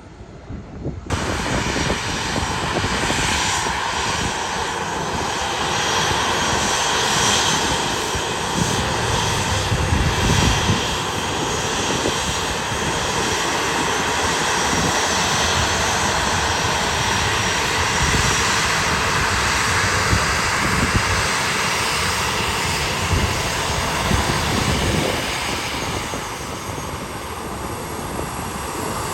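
Airliner engines running loud and steady at close range, starting abruptly about a second in and easing slightly near the end.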